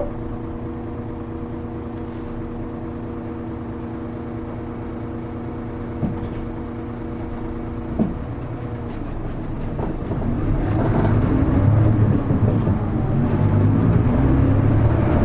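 Hino Rainbow HR city bus's diesel engine idling with a steady hum, heard from inside the cabin, with two short clicks about six and eight seconds in. About ten seconds in, the engine note grows louder and rougher as the bus pulls away and accelerates.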